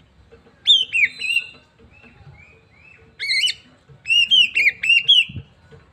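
Oriental magpie-robin (kacer) singing: several phrases of clear, whistled, gliding notes, ending in a quick run of notes about four seconds in.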